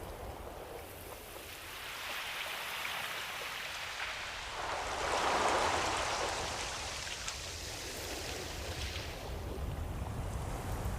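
Ocean waves: a wash of surf that swells over a few seconds, peaks about halfway through and then recedes into a steady hiss.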